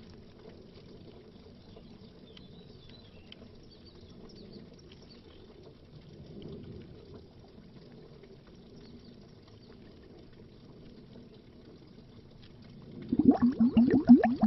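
Underwater bubbling: a long lull of faint low gurgling, then a dense stream of bubbles starts up loudly about a second before the end.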